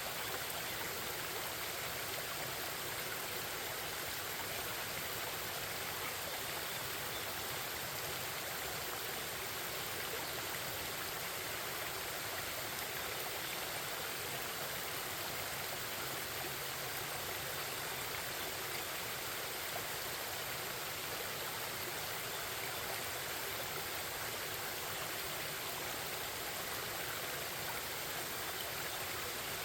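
Forest stream babbling and rushing over rocks in a steady, unbroken flow.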